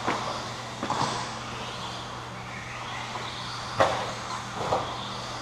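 Electric RC stadium trucks running on the track, their motors whining faintly, with four sharp plastic knocks of the trucks hitting the track, the loudest about four seconds in.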